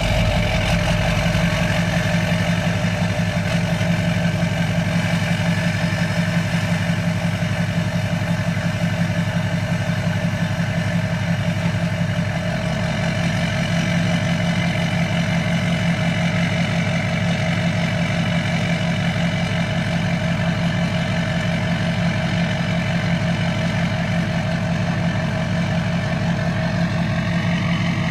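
Straight-piped Duramax 6.6 L V8 turbo-diesel idling steadily through a 5-inch exhaust, loud and even with no revving.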